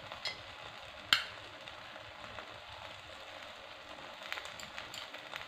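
Eggless batter omelette sizzling gently in an oiled nonstick pan, a steady low hiss. A single sharp click about a second in, and a few light taps of a metal spoon on the omelette near the end.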